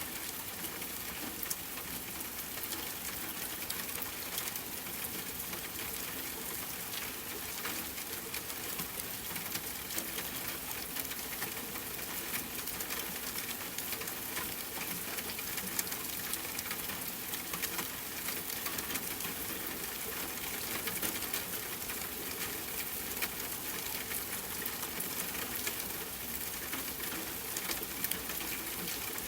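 Steady rain falling, mixed with the fine, irregular crackle of a campfire: a constant hiss with many small scattered ticks.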